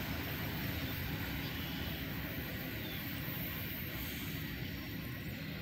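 CSX container train rumbling as it pulls away, slowly fading.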